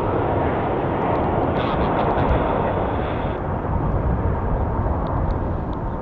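Jet noise from a landing Airbus A320, a steady, loud rush of engine noise whose upper hiss drops away about three seconds in.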